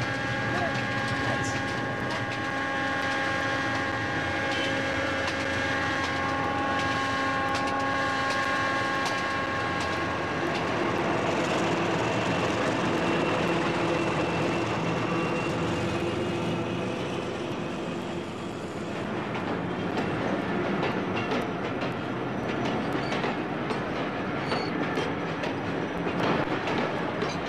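Diesel train passing close by at a level crossing. A steady pitched note carries through the first ten seconds, then the locomotive goes by in a loud, dense rumble, and after about 19 s the wheels clatter over the rail joints as the carriages follow.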